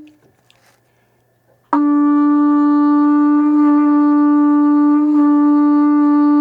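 A replica Horn of Gondor blown. After a short near-quiet gap, a long, loud, steady note starts about two seconds in and is held at one even pitch.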